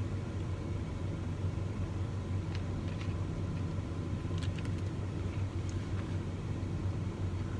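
Steady low rumble of an idling truck engine, with a few faint clicks.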